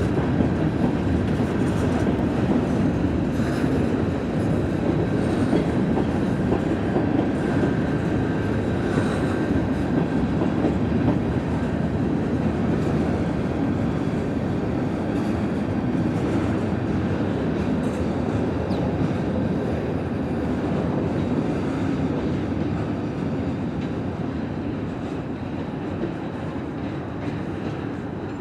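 Diesel-hauled freight train moving on a switch job, including an EMD SD45-2 locomotive with its 20-cylinder engine, running along with the steady rolling noise of its wheels and cars, easing slightly near the end.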